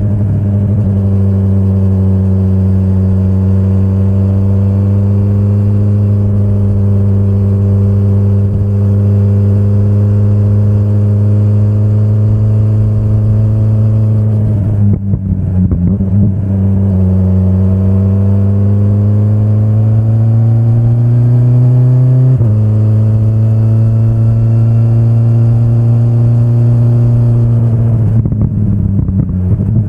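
2025 BMW S1000RR's inline-four engine running at steady, high-ish revs under throttle. About halfway the note breaks off briefly with a clatter, then climbs steadily in pitch as the bike accelerates and drops abruptly at an upshift, with another short break near the end.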